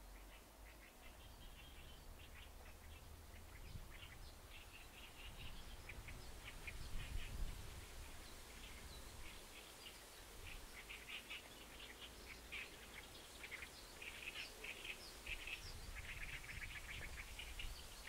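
Songbirds chirping in quick runs of short high notes, busier in the second half, over a low wind rumble that swells about seven seconds in.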